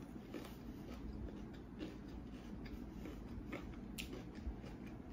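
Faint, irregular clicks and ticks of close-up chewing: a mouthful of dry-rubbed fried chicken, eaten without sauce, being chewed.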